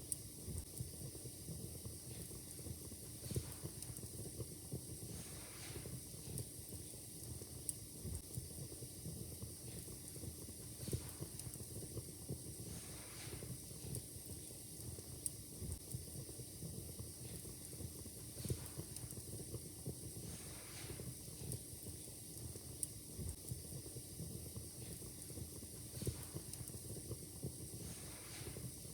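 Wood fire in a fireplace crackling: frequent small sharp pops and snaps over a steady soft hiss, with a few gentle hissing swells every several seconds.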